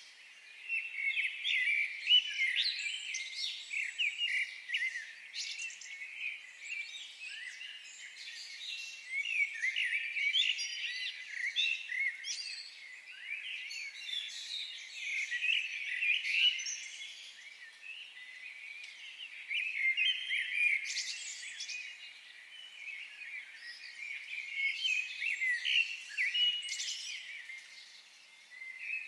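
A chorus of many wild birds chirping and singing over one another in quick, high, overlapping calls that swell and ease every few seconds.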